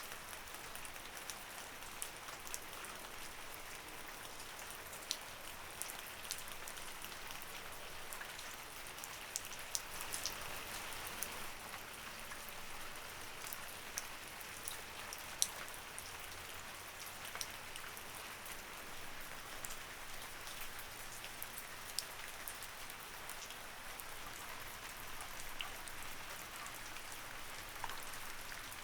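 Light rain falling steadily, a soft even patter with many separate sharp drop ticks scattered throughout.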